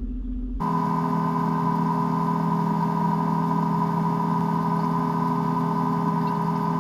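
Sailboat's engine running at a steady speed while motor-sailing: a constant drone of several held tones that starts abruptly about half a second in.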